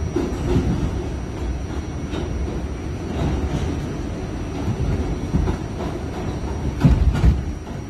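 Kawasaki R68A subway car running along the track: a steady low rumble with scattered wheel clicks, and a few heavier knocks close together about seven seconds in.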